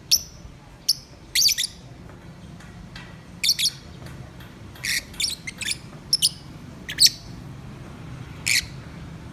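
Lovebirds chirping: about a dozen short, shrill calls in irregular ones and twos, over a faint steady low hum.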